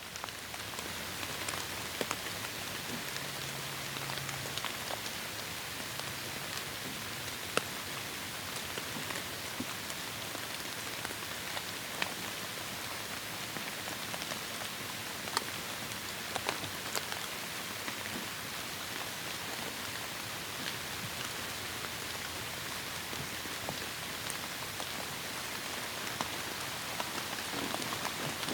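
Heavy rain falling on forest foliage: a steady hiss with scattered louder individual drops.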